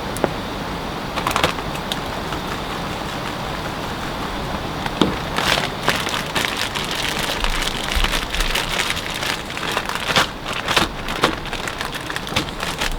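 Steady rain falling, with many sharp drop impacts that become denser from about five seconds in.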